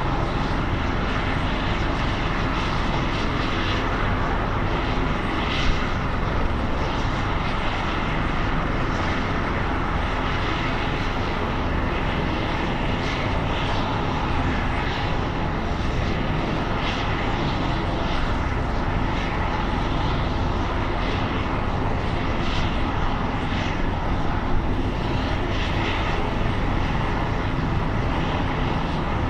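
Helicopter turbine engine and rotor running steadily.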